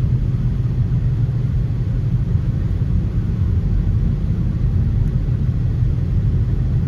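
Steady low rumble of a car's road and engine noise heard from inside the cabin while driving along at an even speed.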